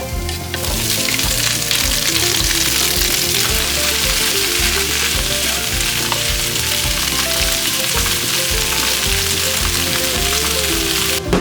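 Food sizzling in a hot frying pan, a steady loud frying hiss that cuts off abruptly near the end.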